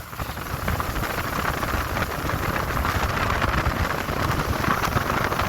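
Steady rushing noise of a small fishing boat running on the river, with wind on the microphone.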